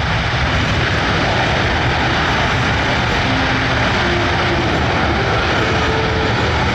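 C-17 Globemaster III's four turbofan engines running loud and steady as the jet makes a short-field landing.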